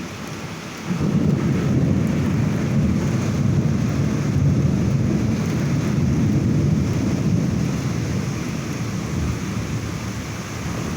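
Thunder: a long low rumble that swells about a second in and slowly dies away, over the steady hiss of heavy rain.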